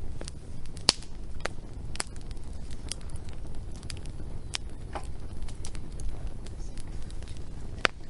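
Wood fire crackling, with sharp pops at irregular intervals (the loudest about a second in and near the end) over a steady low rumble.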